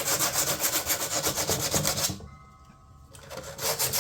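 Sandpaper rubbed by hand over a fiberglass panel in quick back-and-forth strokes, about six a second. The strokes stop about two seconds in and start again near the end.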